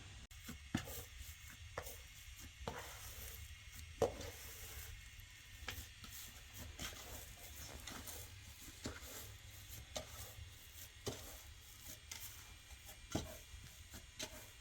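Irregular light knocks and clicks, roughly one a second, from handwork, over a low steady hum.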